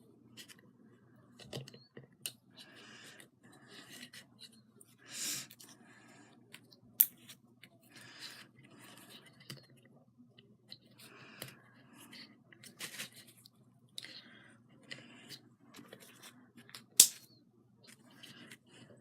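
Small handling noises of craft work at a table: scattered light clicks, taps and scrapes, with two sharp clicks, one about a third of the way in and one near the end.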